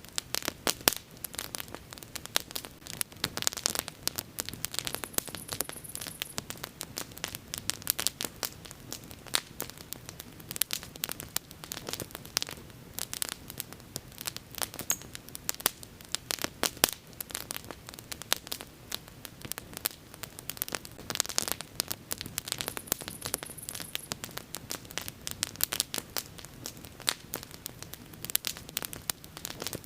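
Wood fire burning, crackling and popping, with many irregular sharp snaps over a soft steady hiss.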